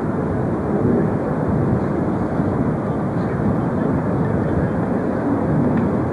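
Jet airliner engine noise, a steady even sound with no clear tone and no breaks.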